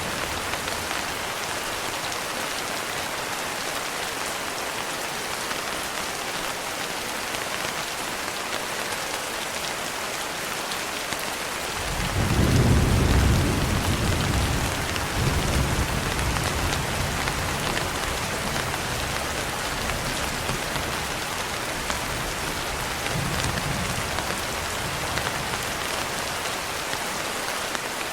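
Steady rain falling, with a roll of thunder about twelve seconds in: a sudden deep rumble that peaks over the next couple of seconds, then rolls on and dies away slowly.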